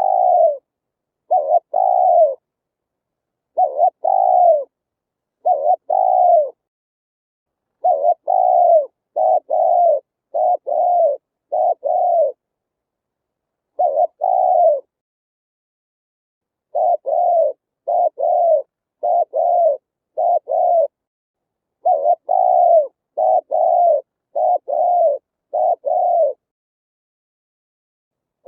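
Spotted dove cooing: short, slightly falling coos repeated in phrases of two to five notes, with pauses of a second or two between phrases.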